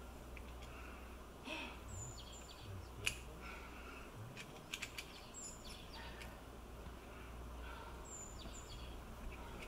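A bird giving a short high call about every three seconds over a faint, steady low rumble, with a few sharp clicks in between.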